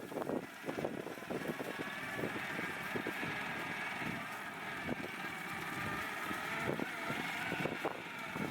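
A steady, high electric-motor whine from an electric tractor driving, over a low rumble with scattered knocks and wind buffeting the microphone.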